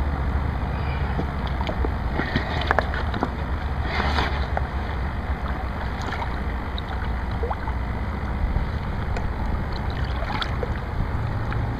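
Steady rush of river water around the angler's hands, with a few light splashes.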